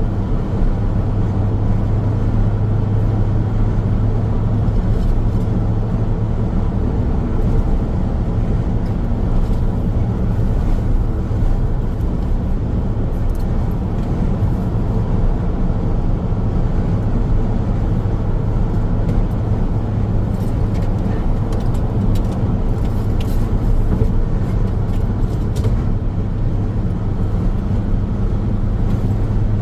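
Car driving along a highway: steady tyre and road noise with a low engine drone.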